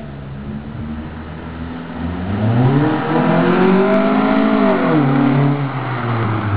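1997 Hyundai Tiburon's four-cylinder engine, breathing through a 2.5-inch cat-back exhaust with an 18-inch Thrush glass-pack muffler, revved up once about two seconds in, held near the top briefly, then dropping back toward idle.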